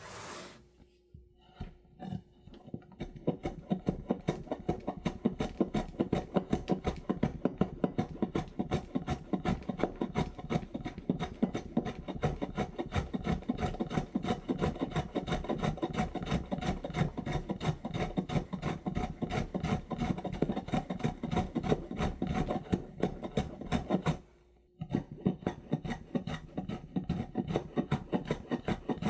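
Rapid, even scraping strokes, about four a second, like something being rubbed or grated by hand. They stop briefly near the end, then go on.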